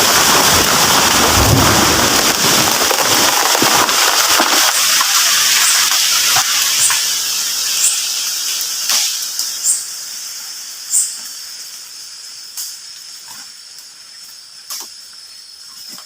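Large felled tree crashing down through branches: a loud rushing crash that dies away over about five seconds, then scattered sharp cracks and snaps of breaking branches as the crown settles.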